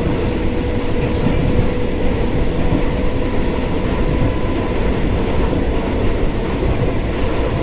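Moving passenger train: a steady rumble of wheels running on the rails, with a constant faint hum.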